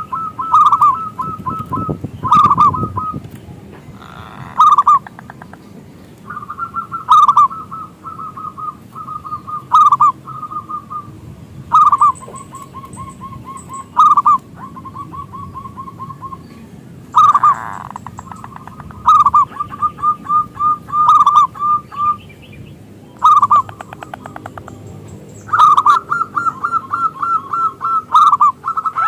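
Zebra dove (perkutut) cooing: repeated phrases of fast, stuttering notes that follow one another every second or two, with faint high chirps between them.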